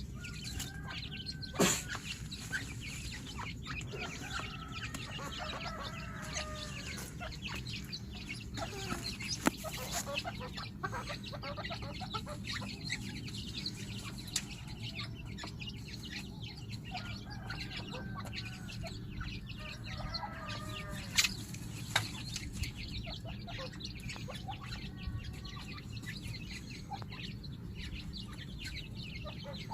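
Grey francolins with their chicks calling softly: runs of thin, short repeated calls, with a few sharp taps and a steady low hum underneath.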